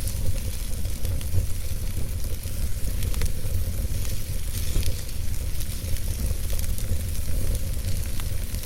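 Wood fire burning in a fireplace: a steady low rumble of flames under a fine hiss, with frequent small crackles and pops from the burning logs.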